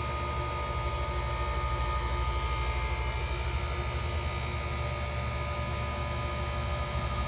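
Self-contained ice machine running: its air-cooled condenser fan and compressor give a steady hum with a fast, even throb, with several steady high tones above it.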